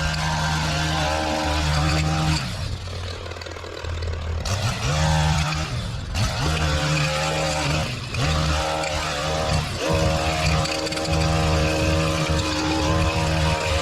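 Small petrol engine of a lawn-care machine running at working speed. It sags about two and a half seconds in, picks up again around four and a half seconds, and dips briefly a few more times.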